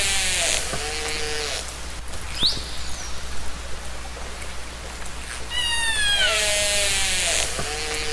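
Killer whale (orca) calls recorded underwater. A call with several harmonics sliding down in pitch is followed by a shorter, lower call and a brief rising whistle, and the sequence comes again about seven seconds later. Steady hiss and a low hum lie underneath.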